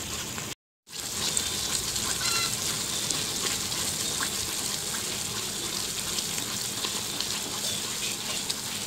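Halwa mixture of maida, sugar and ghee sizzling steadily in a kadai over high flame while a wooden spatula stirs it; it is being cooked down until the ghee separates. The sizzle cuts out briefly about half a second in.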